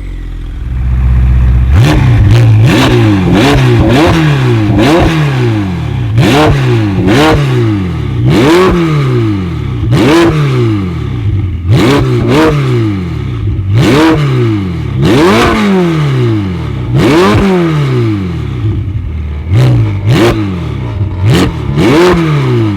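A tuned car's engine blipped over and over, about one rev every second or so, each climbing quickly and dropping back. There are sharp cracks from the exhaust near the top of many revs.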